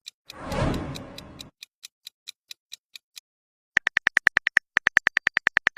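Editing sound effects: a short whoosh, then a run of soft even ticks, about four a second, then a fast string of short high beeps, about seven a second, like text being typed onto the screen.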